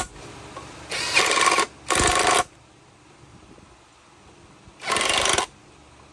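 Three short bursts from a pneumatic tool in a workshop, each about half a second long: two close together about a second in, and a third near the end.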